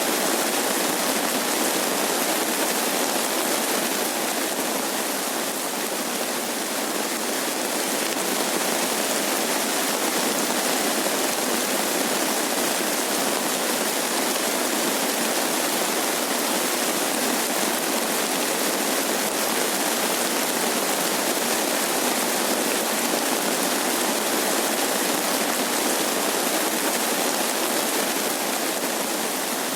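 Steady rain falling, an even hiss that holds at one level throughout, with no thunder or other distinct events.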